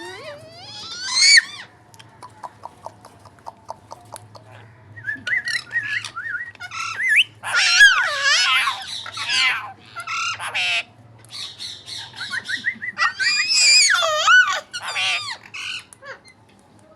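Pet parrot squawking and making warbling, wavering calls, loudest about 8 seconds in and again near the end. A run of quick clicks comes before them.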